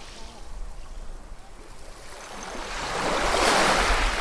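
Ocean waves: a low wash of water, then a wave surges in and builds to its loudest near the end.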